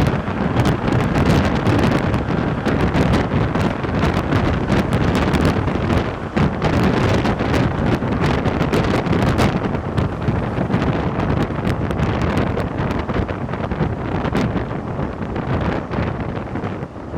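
Rubber-tyred NS-88 metro train running between stations: a steady rumble and rush with frequent short clacks through it, the hiss easing a little past the middle.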